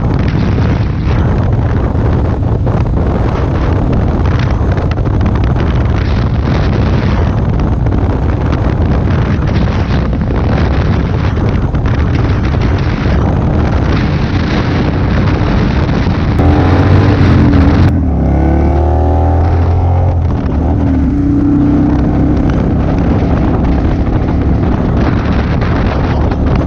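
Motorcycle engine running at road speed under heavy wind noise on the microphone. About sixteen seconds in the engine note climbs twice in quick succession, as when accelerating.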